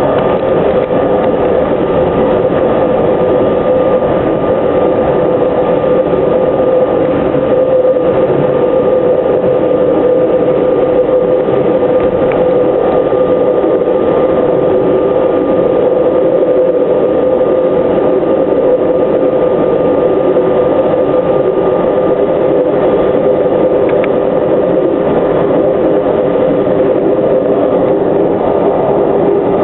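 JR Shikoku 8000 series electric train running at a steady speed: a loud, even running rumble with steady humming tones that neither rise nor fall.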